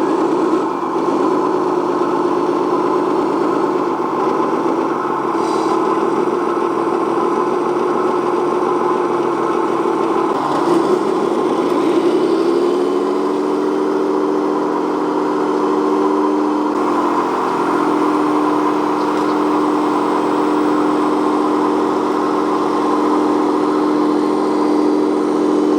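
Remote-control toy truck's electronic engine sound running steadily, with the pitch rising about eleven seconds in, then holding higher.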